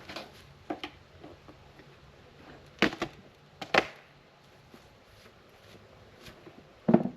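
A few short, sharp knocks: small ones under a second in, two loud ones about three and four seconds in, and another just before the end.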